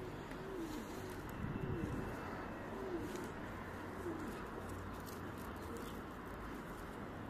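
A bird cooing: a low, arching call repeated about five times, roughly once a second, fading toward the end.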